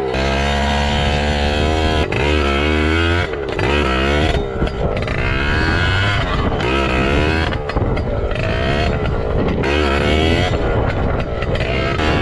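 2007 Yamaha PW80's 80cc two-stroke engine revving hard under riding. Its pitch climbs and falls again and again, with brief throttle-off dips between the pulls.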